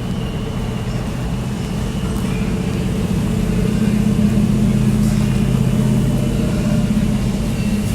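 A car engine running steadily, its hum getting louder from about two seconds in.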